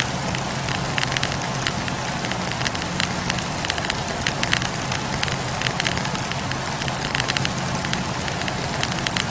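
Wood campfire burning, the logs crackling with many small, irregular sharp pops over a steady low rush of the flames.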